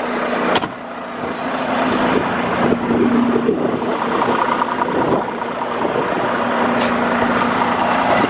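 Volvo D13 diesel engine of a heavy truck idling steadily, with a sharp click about half a second in.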